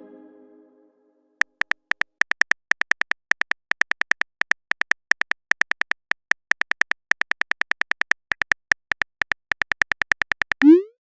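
Phone keyboard typing sound effect: a fast, uneven run of short clicks, several a second, lasting about nine seconds. It follows the fading tail of a message chime and ends in a short rising swoosh, as the next message arrives.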